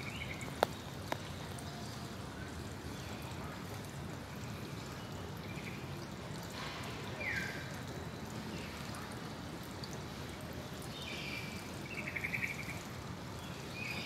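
Steady background hiss with short, high bird calls every few seconds, among them a quick falling note and, near the end, a rapid pulsed call.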